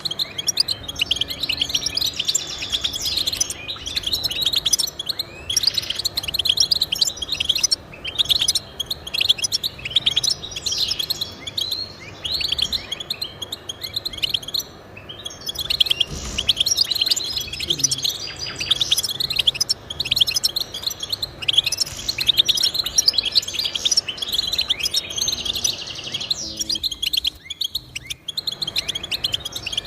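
Finch song: a fast, high-pitched, nearly continuous twittering, with brief pauses about halfway through and near the end.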